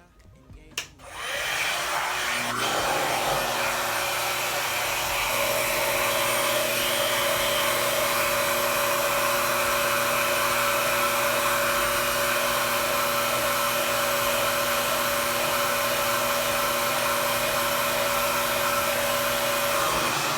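Revair reverse-air hair dryer clicking on about a second in, then running steadily with a loud whooshing hum of suction and airflow. A steady single tone joins the noise about five seconds in.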